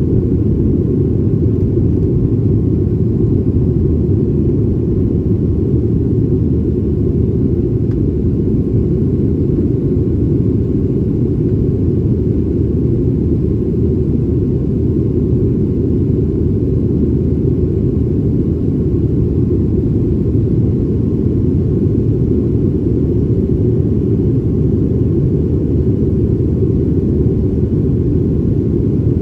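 Steady, even low rumble of a Boeing 737's jet engines and airflow, heard from inside the passenger cabin.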